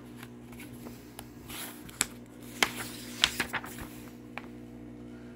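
Steady low electrical hum with a few sharp clicks and faint rustling, the loudest click about three seconds in.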